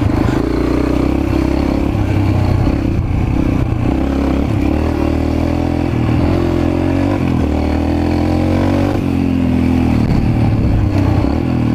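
Mini bike's small engine running as it is ridden, its pitch rising and falling with the throttle, climbing for a few seconds in the middle and then dropping.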